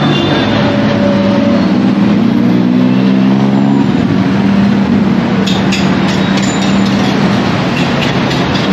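Urban traffic noise dominated by the steady drone of a large passing vehicle, with a few light clicks about halfway through.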